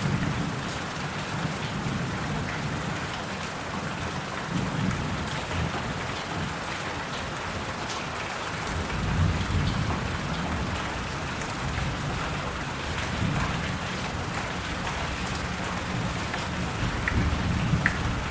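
Steady rain falling, with fine drop ticks and low rumbles that swell and fade every few seconds.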